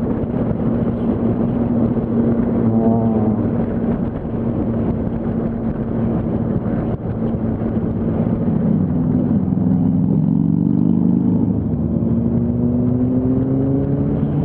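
Yamaha R1 inline-four sport-bike engine running under way in traffic. Its pitch holds steady at first, then climbs gradually over the last few seconds as the bike accelerates.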